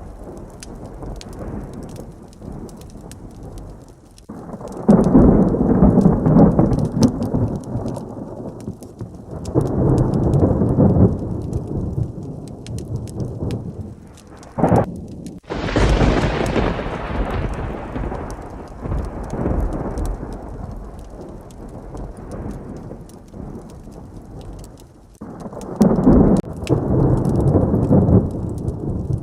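Heavy rain falling steadily, with several rolls of thunder and one sharp, loud thunderclap about halfway through that rumbles away over a few seconds.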